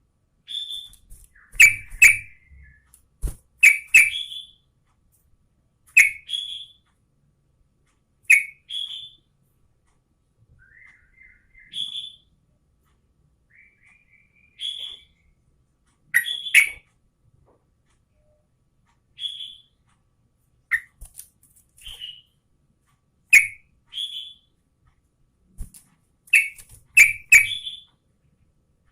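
Yellow-vented bulbul (trucukan) calling: short, sharp, liquid notes repeated about every two seconds, with softer twittering phrases in between.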